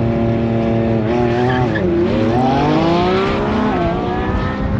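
High-performance SUV engines accelerating hard down a drag strip: revs held, then climbing in pitch, with a drop at each gear change, about two seconds in and again near four.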